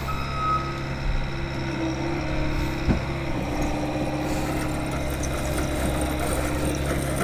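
Axis M200 mini bike's small single-cylinder engine idling steadily, with a single click about three seconds in. The engine sounds bad, which the owner takes for a blown motor.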